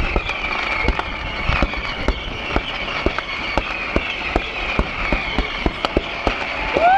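Fireworks going off in irregular sharp pops and bangs, several a second, over the murmur of a large crowd. Near the end a steady whistling tone starts up and holds.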